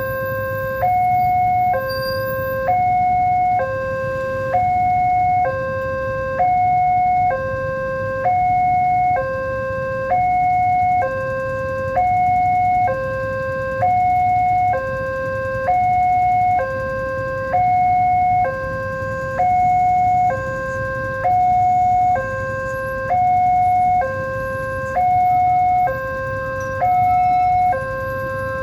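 Railway level-crossing warning alarm sounding: an electronic two-tone signal that alternates steadily between a lower and a higher tone, each held about a second, warning that a train is approaching. A low rumble runs beneath it.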